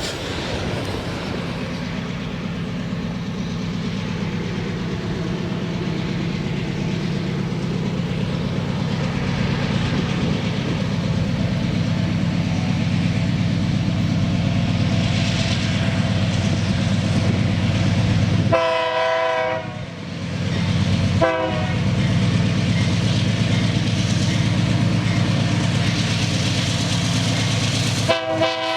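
Diesel freight train running steadily past, its locomotive sounding the horn: one long blast about two-thirds of the way in, a short blast just after, and another blast starting near the end.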